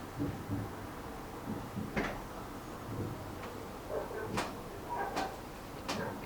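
Fireworks going off: a series of sharp bangs and cracks, a few seconds apart, with duller low thuds between.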